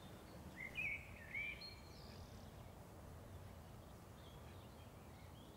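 Quiet outdoor ambience, a steady low hiss, with a few faint bird chirps in the first two seconds.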